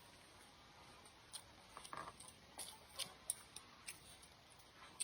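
Faint close-up eating sounds: a run of small clicks and smacks of chewing, starting just over a second in and easing off before the end, with one more click at the close.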